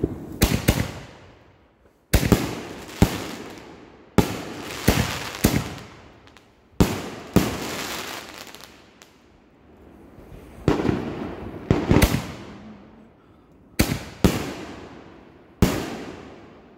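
Aerial fireworks bursting overhead: a sharp bang every second or two, sometimes two in quick succession, each trailing off over about a second.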